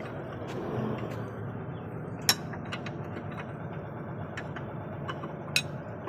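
Scattered sharp metallic clicks and clinks of tools working on metal, two of them louder (about two seconds in and near the end), over a steady low background hum.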